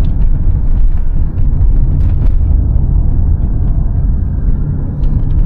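Moving car's engine and road noise heard from inside the cabin: a loud, steady low rumble.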